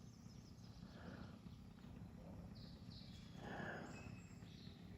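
Faint birds calling here and there, a few short calls about halfway through, over a low steady background hum of the outdoors.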